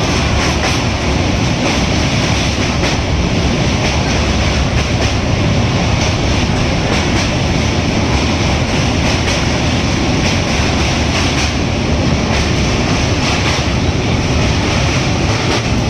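A train running on the rails: a steady loud rumble with faint irregular clicks from the wheels over the track.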